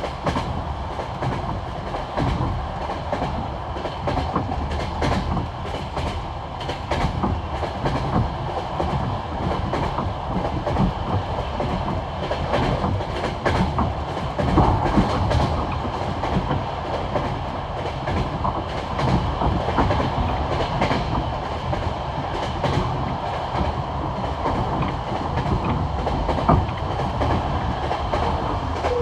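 Passenger train wheels clattering over the rail joints of old jointed track at speed, the classic clickety-clack. Quick clicks run over a steady rolling rumble.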